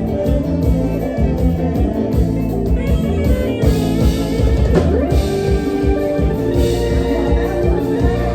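Isan toei dance music played live by a band: a guitar lead over bass and drum kit with a steady beat, no singing.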